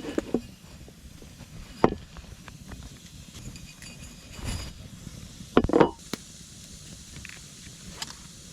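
A few scattered knocks and clatters over a low steady hiss, the loudest a quick cluster of knocks past the middle.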